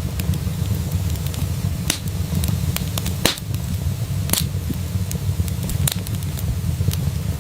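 A fire crackling in a fireplace: a steady low rumble of the flames with sharp pops scattered through, the loudest a little over three and about four seconds in.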